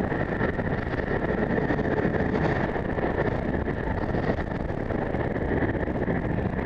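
Strong wind buffeting the microphone, a steady rushing with a faint high steady tone underneath.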